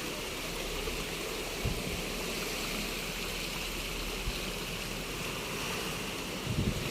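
Sea waves washing onto a beach: a steady rushing hiss of surf, with a couple of brief low thumps, one about two seconds in and one near the end.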